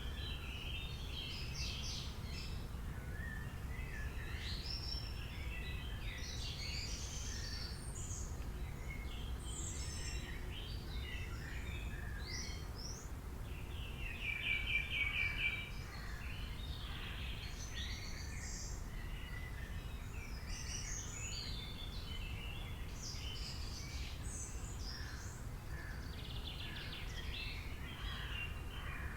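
Several songbirds chirping and trilling in overlapping short calls, with one louder rapid trill about halfway through, over a steady low background rumble.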